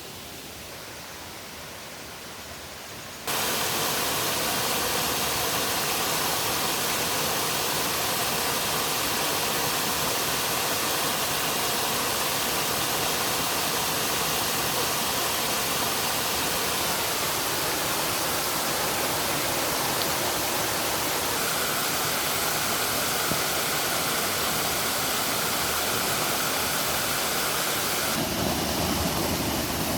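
Stream water rushing steadily into a rock pool, an even roar of running water. It jumps suddenly louder about three seconds in and shifts in tone near the end.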